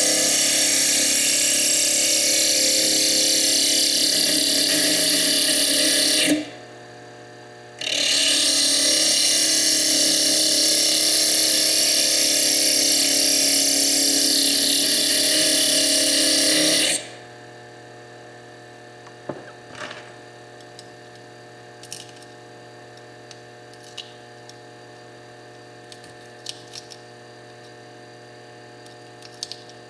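Foredom bench lathe's small slitting disc grinding into fire agate to cut away its chalcedony cap: a loud, steady grinding hiss for about six seconds, a short break, then about nine seconds more. It stops a little over halfway through, leaving a faint steady hum and a few light clicks.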